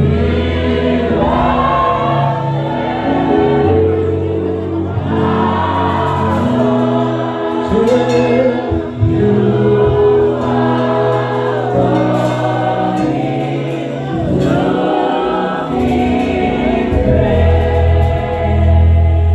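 Gospel worship music: a choir and congregation singing slowly over held instrumental chords with a steady low bass.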